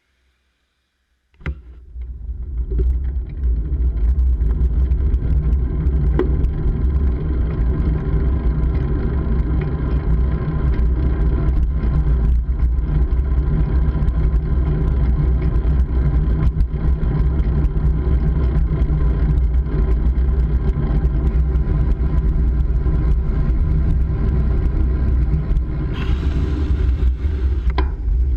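Wind and road noise on the microphone of a camera riding on a moving bike: a steady, loud, deep rumble with scattered small clicks, starting suddenly about a second in.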